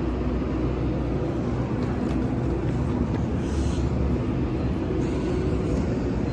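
Steady low rumble of a moving vehicle, with a faint even hum.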